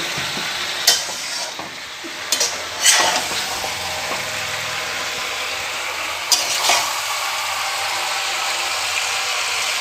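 Chicken curry sizzling steadily in a pan over a gas flame, with a few knocks and scrapes of a stirring spoon against the pan.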